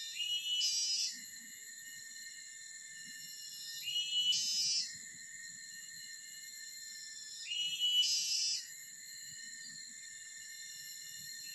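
A bird calling three times, each call about a second long and about three and a half seconds apart, over a steady high-pitched chorus of insects.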